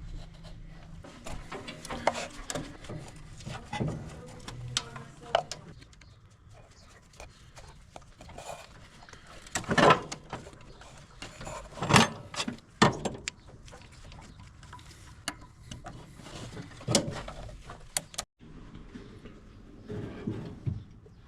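Scattered metallic clinks and knocks, a few of them sharp and loud, from hand tools and parts being handled while a car's carburettor is unbolted.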